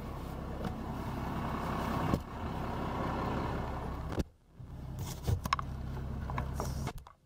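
Dodge Ram's 5.9 Cummins turbo diesel idling steadily, with a few brief knocks and two short drop-outs.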